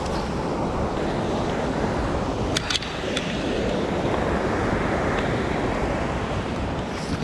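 Mountain stream water rushing steadily, with a few short clicks about two and a half to three seconds in.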